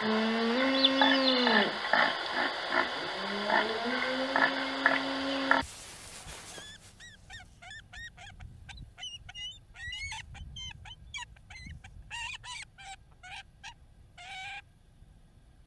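Red deer stag roaring: two long, deep calls with a pulsing rasp, the second rising and held. After a cut, a bald eagle calling in a series of short, high-pitched chirping notes for about seven seconds.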